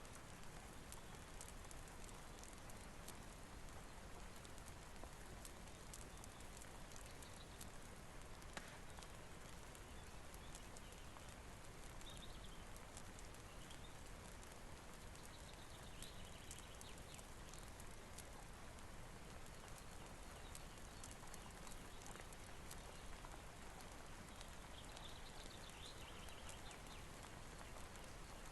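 Faint steady rain hiss with scattered sharp ticks throughout, and a few brief high chirps near the middle and toward the end.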